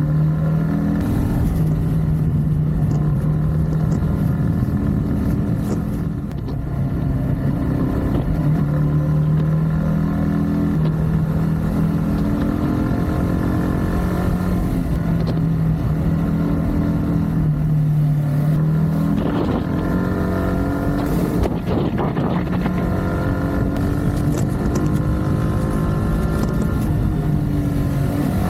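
Yamaha MT-15's 155 cc single-cylinder engine and exhaust running as the bike is ridden, the pitch rising and falling with throttle and gear changes, easing off briefly about six seconds in.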